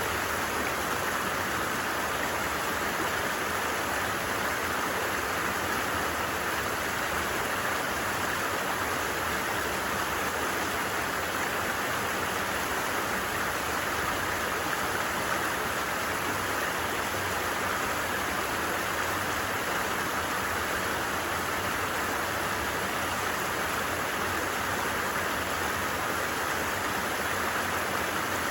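Stream water running, a steady even rushing with no pauses.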